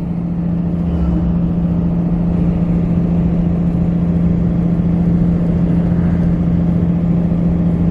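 Steady engine drone and tyre rumble heard from inside a car's cabin while driving at an even speed, with a constant low hum.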